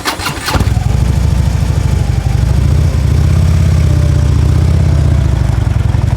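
Motorcycle engine cranked by its electric starter, catching after about half a second, then idling steadily with a loud, low pulsing exhaust note.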